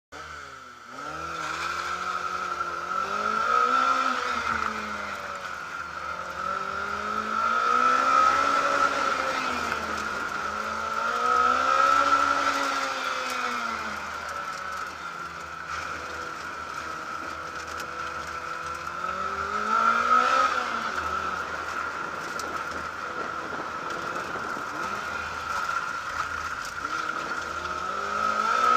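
Lotus Elise's four-cylinder engine driven hard through an autocross course, revs repeatedly climbing and dropping as it accelerates between cones and lifts for the turns. A steady high whine runs underneath throughout.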